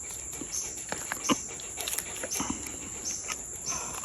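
A small dog whimpering in short, repeated sounds, over a steady high-pitched drone.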